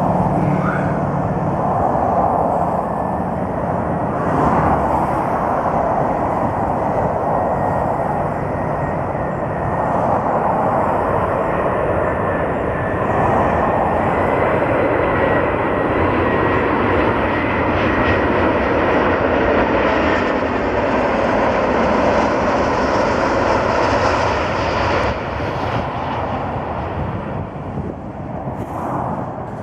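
Airbus A340 four-engine jetliner landing: steady, loud jet-engine noise with a faint high whine held over it, easing off somewhat near the end.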